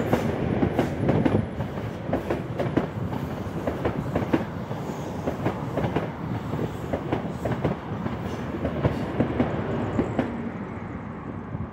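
Network Rail's New Measurement Train, a High Speed Train set with Class 43 power cars, passing close by over pointwork, its wheels clattering rapidly over the rail joints and points. The sound fades away near the end as the train leaves.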